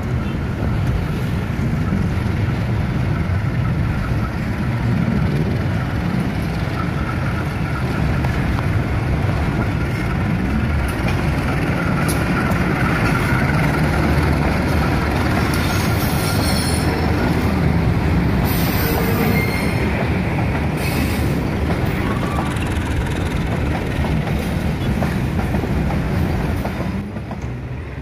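Diesel locomotive running past close by, its wheels clattering over the rail joints and points with some wheel squeal.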